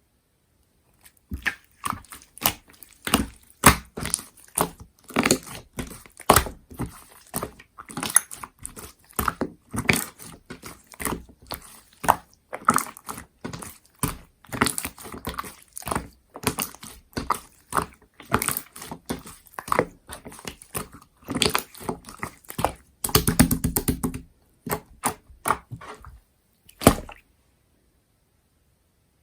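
Slime being squished and worked by hand, giving an irregular run of sticky clicks and pops, thickest in a dense burst near the end before it stops.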